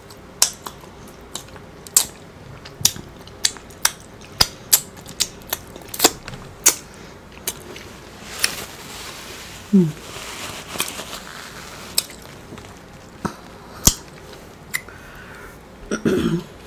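Close-miked eating sounds: chewing with irregular sharp wet mouth clicks and lip smacks, a few a second, and a short hum about ten seconds in.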